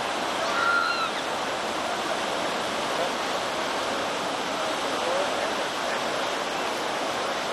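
Steady rush of river whitewater running through rapids.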